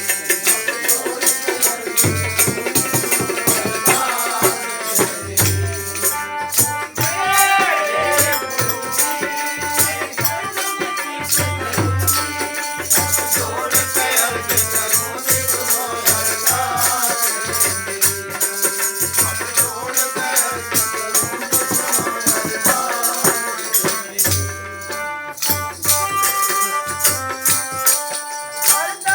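Instrumental break in live devotional satsang music: a hand drum keeps a steady beat under shaken, jingling rattle percussion, with a melody instrument holding sustained notes.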